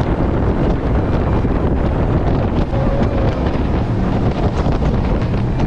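Jet boat running at speed on the river, its engine and water spray buried under heavy wind buffeting the microphone.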